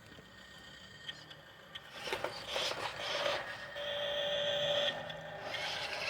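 Machinery noise that rises about two seconds in, with scraping and clattering and a steady whine near the middle.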